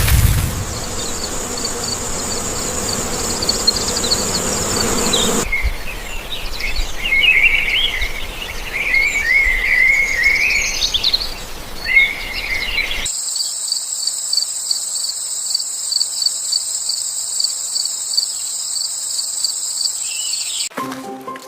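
Insects chirping in a steady high trill. For several seconds in the middle it gives way to warbling, bird-like chirps. Then the trill returns with an even pulse about four times a second and cuts off suddenly near the end.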